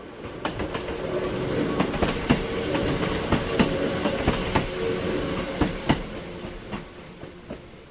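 A Hakone Tozan Railway electric train passes close by, its wheels clacking over rail joints over a steady hum. It grows louder to a peak around the middle and fades toward the end.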